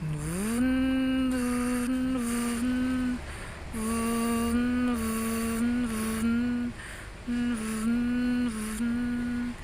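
A person humming: three long phrases of held notes that step up and down, the first opening with an upward slide in pitch.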